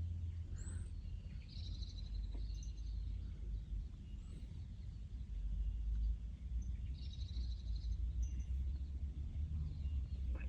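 Small songbirds chirping in a tree: two short bursts of rapid high chirps, one in the first few seconds and one after about seven seconds, with a few thin single chirps between, over a steady low rumble.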